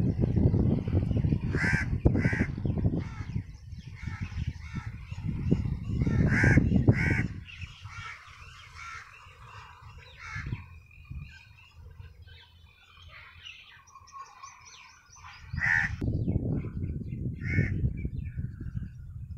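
Several short bird calls of the crow kind, some coming in quick pairs, over a low rumbling noise that fades away in the middle and comes back near the end.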